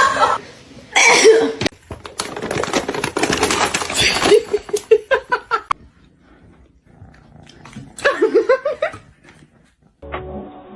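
A pet animal's cries: several calls, with a run of short calls mixed with clicks and knocks in the middle, then a pause and one more call near the end.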